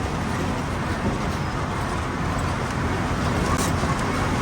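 Truck engine and road noise heard from inside the moving truck's cab, a steady rumble with a constant low engine drone.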